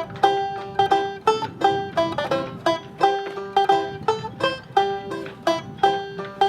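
Background music: a tune picked quickly on a 1925 Oriole tenor banjo, several sharply plucked notes a second.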